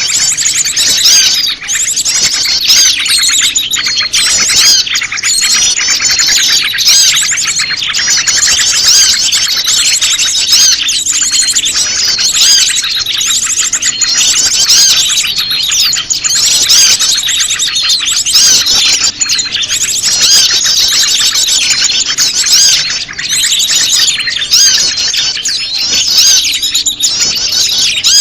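Bird-lure recording of prenjak lumut calls mixed into a chorus of many small songbirds, all chirping and trilling at once in a dense, unbroken chatter.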